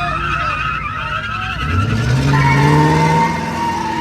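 Car engine revving hard while its tyres squeal, as in a burnout or donut. A wavering squeal comes first; then the engine note climbs about a second and a half in, holds, and eases off near the three-second mark.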